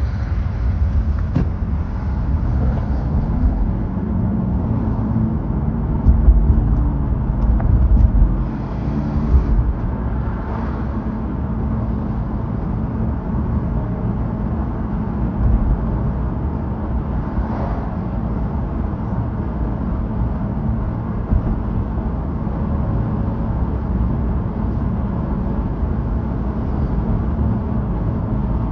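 Steady low rumble of car road noise, swelling louder for a couple of seconds about six to eight seconds in.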